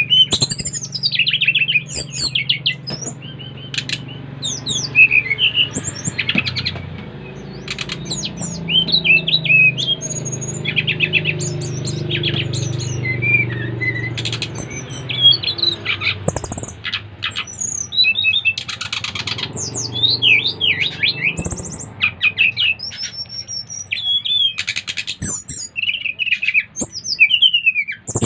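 SRDC (sikatan rimba dada coklat) songbirds singing: a dense run of sharp chirps and quick whistled phrases that slide up and down in pitch, with a steady low hum underneath.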